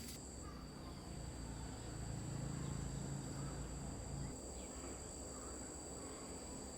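Insects trilling steadily in two thin, high-pitched tones over a faint low rumble. The rumble swells slightly from about two to four seconds in.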